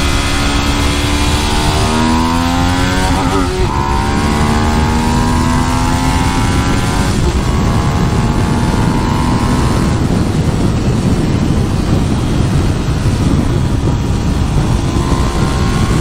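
Motorcycle engine accelerating hard, its pitch climbing and dropping back at gear changes about three and a half seconds and about seven seconds in, over heavy wind rush on the microphone.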